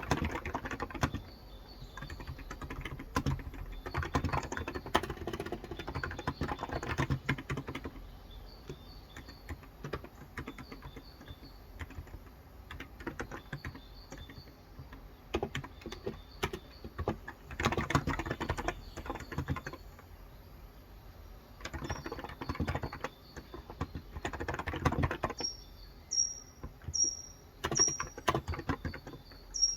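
Typing on a Cox Endeavor electrocapacitive (Topre-style) 35 g tenkeyless keyboard, in bursts of keystrokes with short pauses. Birds chirp faintly throughout, with a louder run of about five short chirps, about one a second, near the end.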